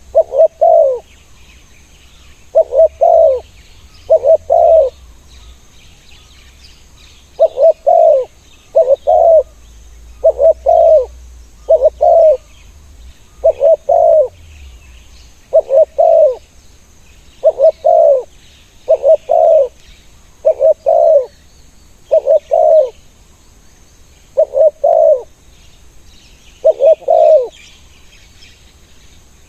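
Spotted dove cooing close by: a loud, low two-note coo repeated about fifteen times, every second or two. Faint high chirping from other small birds lies underneath.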